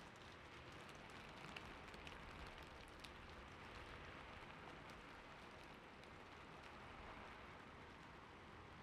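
Gentle steady rain, soft and even, with a few faint clicks scattered through the first few seconds.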